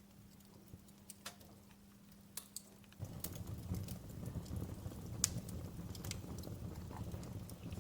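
Wood fire crackling, with scattered sharp pops and snaps. About three seconds in, a low rushing rumble of flame comes in suddenly and carries on under the pops.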